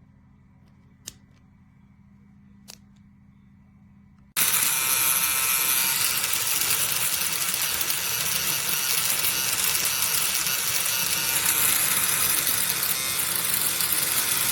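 Two short clicks, then about four seconds in a TPOB Mini Skull electric shaver starts and runs loud and steady, a buzzing motor with a lot of high hiss.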